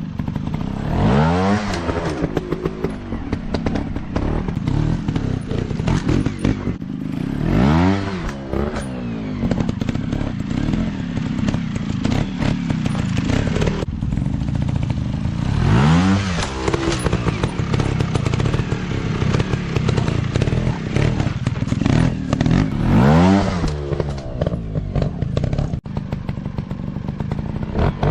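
Dirt bike engine running loudly, revving up and easing off again about five times, the pitch rising and falling each time.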